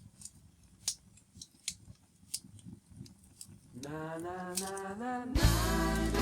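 Wood fire crackling with sharp, irregular pops. About four seconds in, a gliding melody line comes in, and near the end fuller background music with a bass line takes over.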